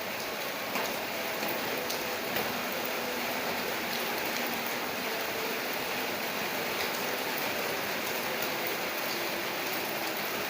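Steady rain falling, a dense even hiss with scattered individual drops ticking on a surface, a few of them sharper within the first couple of seconds.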